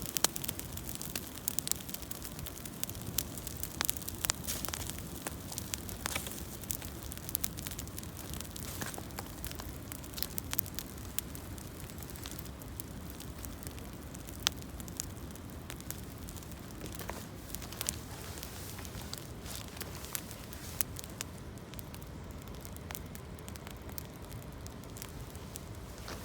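Campfire of gathered branches and fallen leaves burning, with scattered sharp crackles and pops over a steady low noise.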